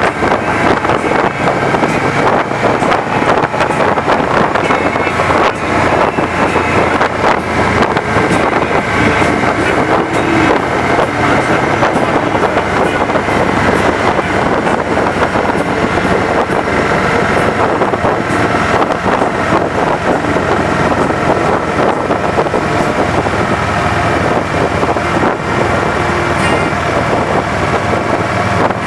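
Steady rush of wind buffeting the microphone during a fast downhill ride, with road noise beneath it.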